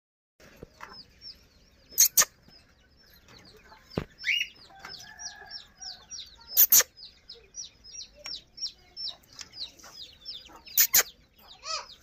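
Small birds cheeping: quick, high, falling chirps about three or four a second, with a few loud sharp clicks, mostly in pairs.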